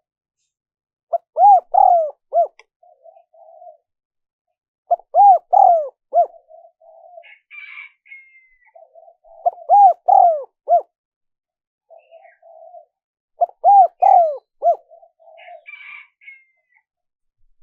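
Spotted dove cooing: four phrases of a few rising-and-falling coos about four seconds apart, with softer low notes between them.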